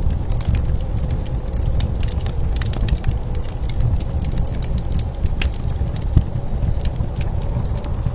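Wood fire crackling with frequent sharp pops, over a steady low rumble of blizzard wind.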